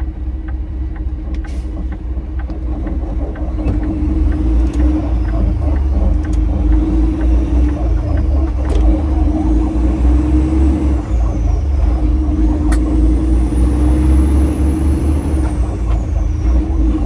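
Semi-truck diesel engine running under load, heard from inside the cab, growing louder about four seconds in as the truck pulls away. Regular light ticks run through the first half, and a high whistle rises, holds and falls near the end.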